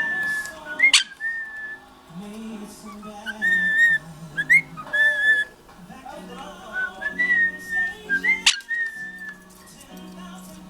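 Quaker parrot whistling: held notes at about the same pitch, broken by quick rising whistles, with two sharp upward swoops, one about a second in and one near the end.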